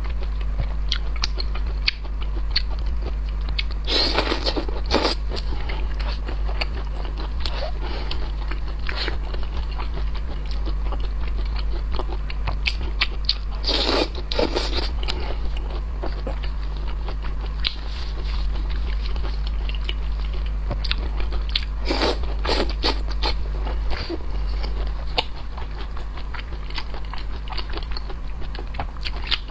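Chewing and crunching of seafood: a run of small wet clicks with three louder bursts of crunching, about four, fourteen and twenty-two seconds in, over a steady low hum.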